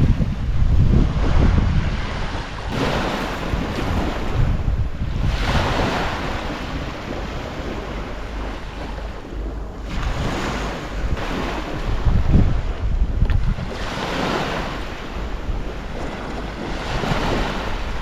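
Strong wind buffeting the microphone, with a deep rumble that surges and eases in gusts every few seconds, over waves washing on the shore.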